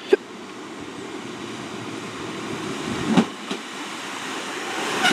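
A diesel multiple-unit train running into the station, its rumble growing steadily louder as it approaches, with a couple of brief knocks.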